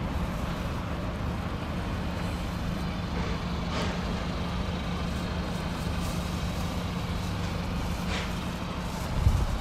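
Toyota Land Cruiser Prado engine idling, a steady low hum. A louder low rumble comes in near the end.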